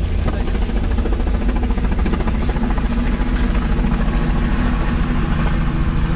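Helicopter engine and rotor running with a steady, loud drone.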